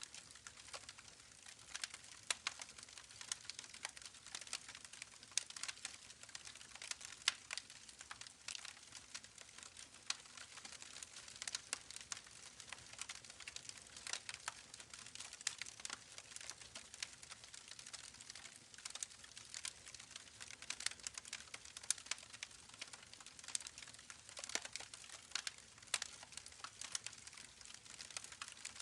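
Campfire crackling: irregular sharp pops and snaps, several a second, over a steady hiss.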